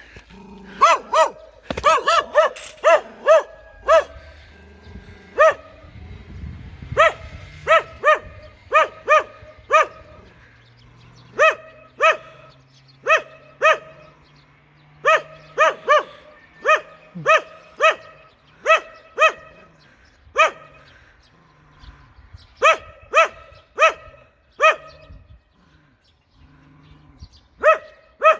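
A dog barking fiercely and repeatedly, short sharp barks in runs of two to four with brief pauses between runs.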